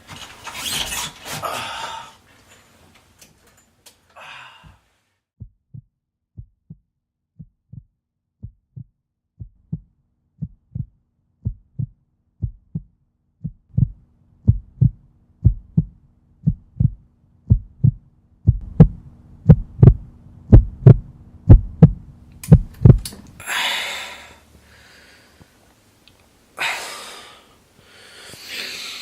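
Heartbeat-like low thumps that start slow and quiet and speed up and grow louder, with a low steady drone joining partway through. Heavy breaths come at the start and after the beats stop.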